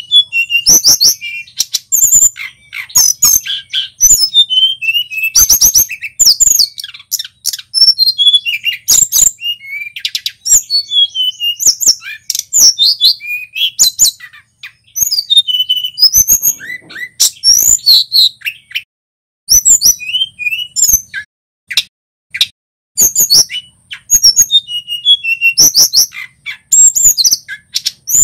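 Male tledekan gunung singing a fast, varied song of high whistles and sharp chipping notes in quick phrases, with a few short pauses.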